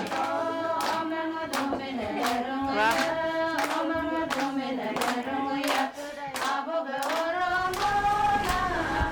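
Singing voices carrying a melody over a steady clap-like beat of about two strokes a second.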